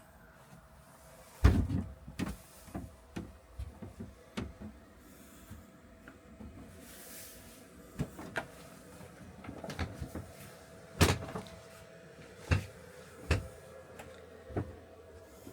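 A series of irregular knocks and clunks, like cupboard doors or latches being handled. The loudest comes about a second and a half in and another near the middle, over a faint steady hum.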